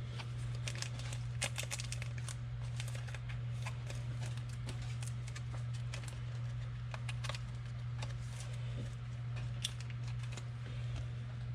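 Trading cards being handled and sorted by hand: a busy, irregular run of small clicks and ticks as cards and pack wrappers are flipped and tapped, over a steady low hum.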